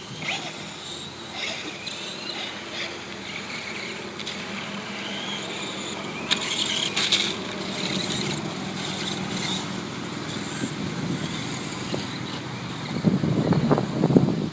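Electric RC monster truck (Volcano EPX) running on a dirt course, its motor whining up and down with the throttle. A loud rough rush of noise comes in near the end.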